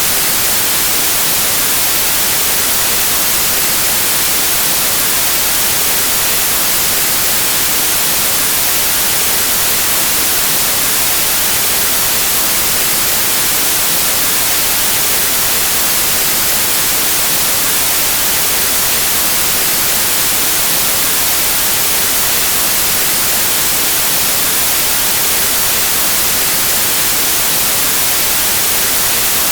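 Steady, unbroken white noise: an even static hiss, brighter in the highs, with no change or events.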